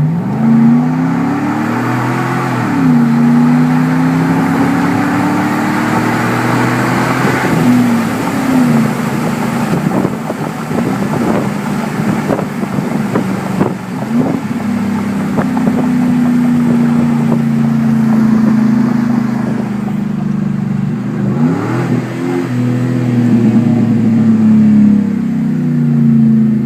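2010 Chevrolet Silverado Z71 pickup driving on its aftermarket exhaust. The engine note climbs and drops back at gear changes in the first several seconds, holds steady while cruising, then climbs again near the end.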